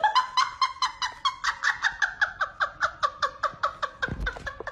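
An animal's rapid, repeated pitched call, about seven pulses a second, held for several seconds without a break. A low thump comes near the end.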